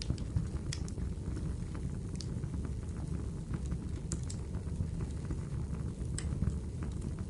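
Wood fire burning in a fireplace: a steady low rumble of flames with irregular sharp crackles and pops, several of them brighter snaps scattered through.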